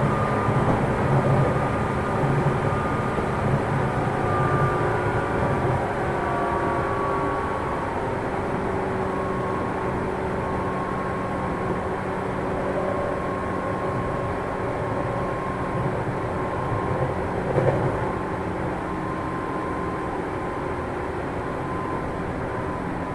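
Running sound inside the motor car of a 205-series electric train, cruising between stations: a steady rumble of wheels on rail under the whine of the externally fan-cooled traction motors, whose pitch sinks slowly.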